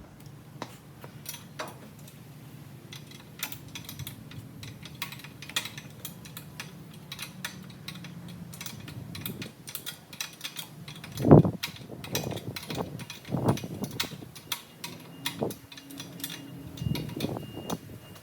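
Metal hand tools clinking and rattling, as when someone sorts through wrenches, with many scattered small clicks and a few louder knocks around the middle and near the end.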